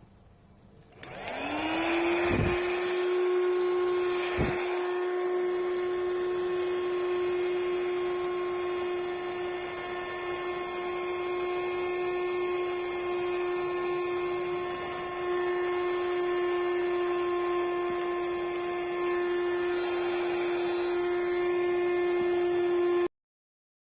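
Handheld cordless dust-mite vacuum cleaner switching on about a second in, its motor spinning up to a steady high whine. There are two knocks within the first five seconds. The motor runs steadily until it cuts off abruptly near the end.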